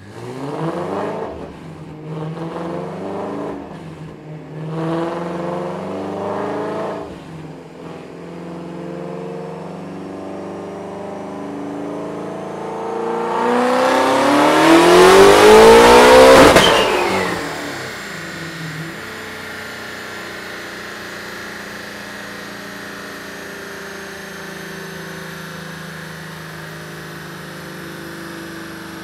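Twin-turbo Shelby GT350's 5.2-litre flat-plane-crank V8, with an unmuffled exhaust, running on a chassis dyno: three quick revs, then idle, then a full-throttle pull rising in pitch for about four seconds. At the top it cuts back to idle with a falling whistle, and idles steadily after.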